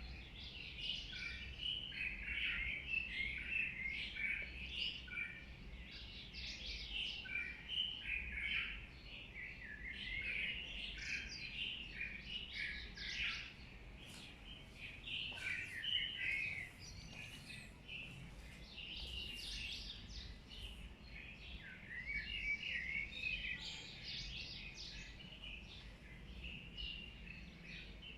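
Many small birds chirping together, a dense chorus of short high calls that swells and thins out in waves.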